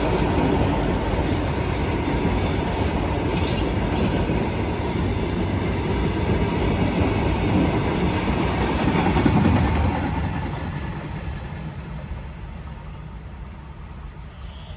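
Loaded coal goods train rolling past: a steady rumble and rattle of the wagons on the rails, with a few brief high wheel squeals early on. It fades away over the last few seconds as the train moves off.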